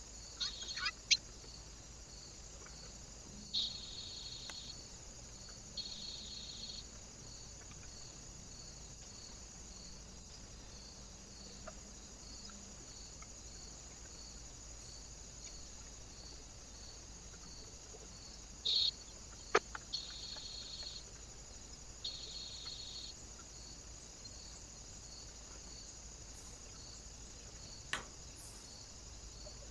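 Small birds at a feeder: a few short, high calls and several sharp taps, over a steady high-pitched hiss.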